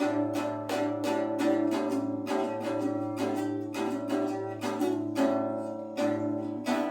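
Background music: a plucked string instrument, like an acoustic guitar, picking a run of notes, several a second.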